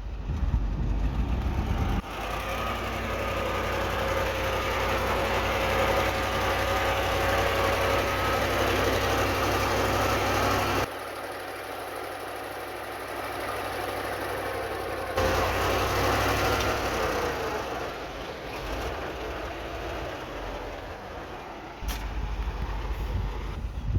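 Heavy diesel earthmoving machinery running, with a low rumble and a wavering whine above it. The sound changes abruptly four times, as if separate takes are cut together.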